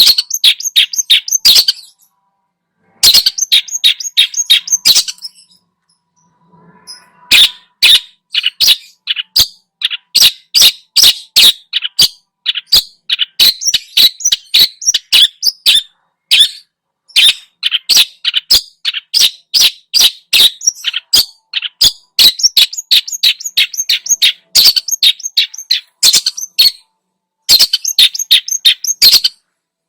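Long-tailed shrike (cendet) singing loudly in fast runs of short, sharp notes, about four or five a second. The runs break off in short pauses about two seconds in, around five to seven seconds in, and near the end.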